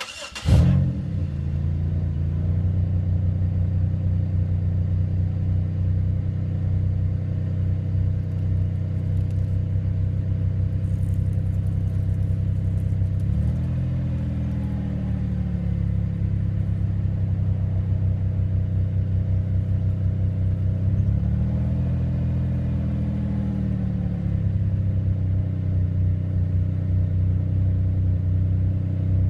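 2004 Pontiac Grand Prix GT's 3.8-litre V6 starting up about half a second in, then idling through its exhaust. It is revved twice, each time a smooth rise and fall in pitch lasting a couple of seconds, once near the middle and once about two-thirds of the way through.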